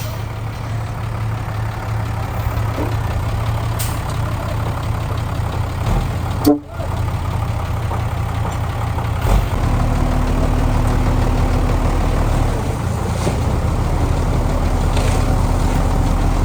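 Heavy-equipment diesel engine running steadily with a low drone. The sound breaks off for a moment about six and a half seconds in, then comes back a little louder.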